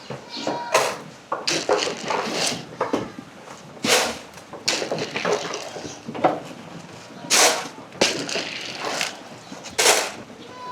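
Irregular knocks, scuffs and rustles of goats and sheep crowding and eating at their grain feed, about a dozen sharp knocks spread through.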